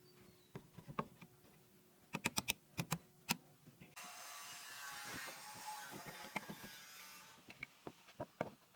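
Light clicks and taps of small workshop parts being handled, including a quick run of four sharp clicks. In the middle comes about three seconds of steady hissing, whirring mechanical noise.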